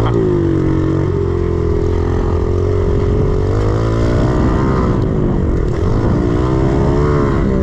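110cc single-cylinder four-stroke pit bike engine being ridden on a dirt track. The engine note holds, climbs about four seconds in, drops back around six seconds and climbs again near the end as the throttle is worked.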